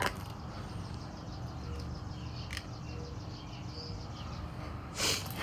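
1960s Johnson Seahorse outboard motor idling steadily in neutral, with faint bird chirps over it.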